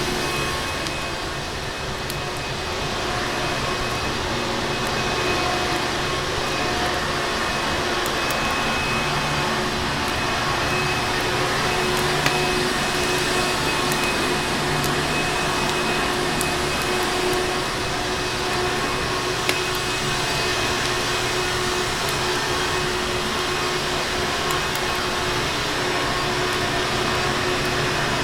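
Vacuum cleaner motor running steadily with an even hum, mixed with a few sharp crackles from a fireplace scattered through.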